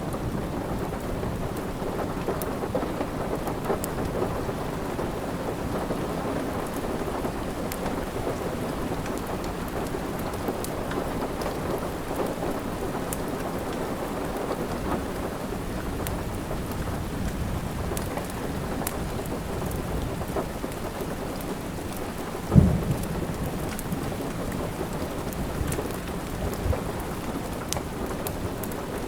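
Steady rain with scattered small crackles of a wood fire. One short, low thump comes about three-quarters of the way through.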